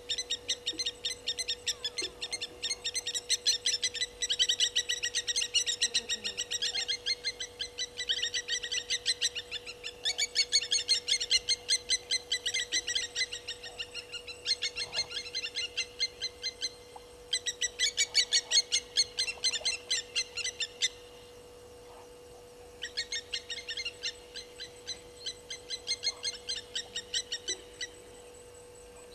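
Bird calling in long bouts of rapid, evenly repeated high notes, with short pauses between bouts.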